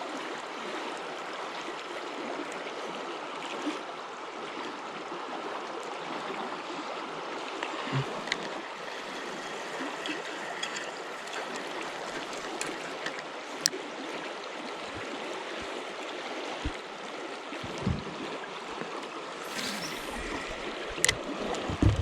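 Swift river water rushing steadily over rocks, with a few faint clicks and knocks here and there.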